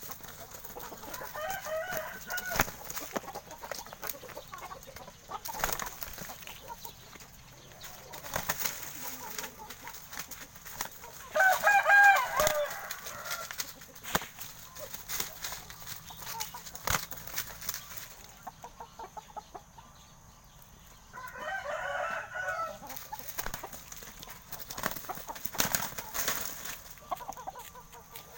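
Roosters crowing three times: about a second in, in the middle (the loudest), and about two-thirds of the way through. Scattered short taps and knocks sound between the crows.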